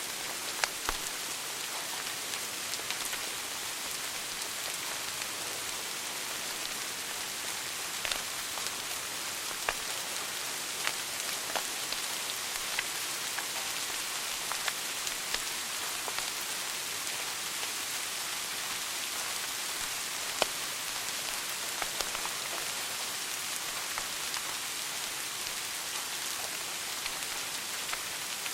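Wood fire burning in a fireplace: a steady hiss with frequent sharp crackles and pops, one louder pop about two-thirds of the way through.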